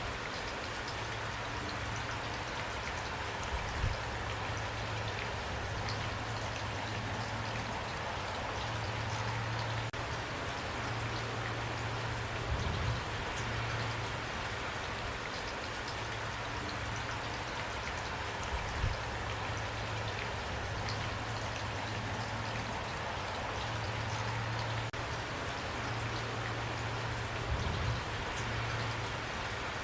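Steady rain falling, drops pattering on a surface, with a few brief low thumps standing out about four times.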